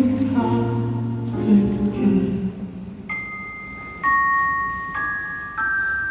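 Live band playing a soft instrumental passage. Sustained keyboard chords over a bass line give way to four slow, bell-like high notes, each about a second apart and each a step lower than the last.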